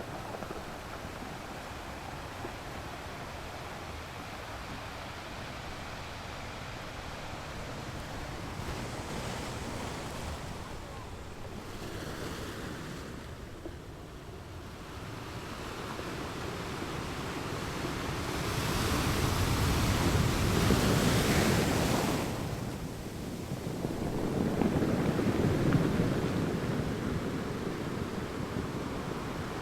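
Ocean waves washing onto a beach, a steady surf that swells into a louder breaking wave about two-thirds of the way through, with a second swell shortly after.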